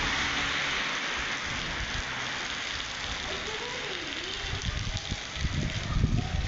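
Steady rain falling, an even hiss of drops, with low thuds and rumbles in the last two seconds.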